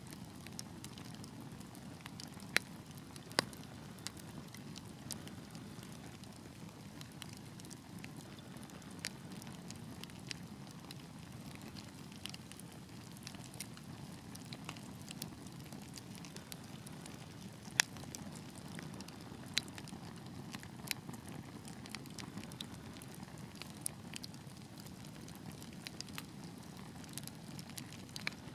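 Wood fire burning in a fireplace: a steady low hiss of flames with irregular crackles and pops, a few sharp loud snaps among them.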